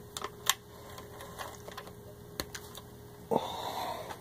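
Vintage Singer 403A sewing machine at rest after stitching, handled by hand: scattered sharp mechanical clicks over a faint steady hum, then a brief rustling rush about three seconds in.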